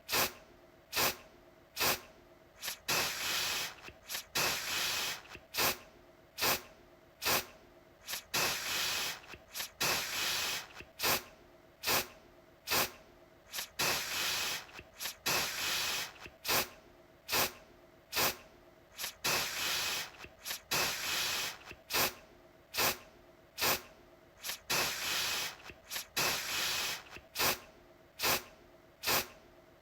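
Aerosol deodorant can spraying in repeated bursts: short sharp puffs alternating with longer hisses of about a second, over and over.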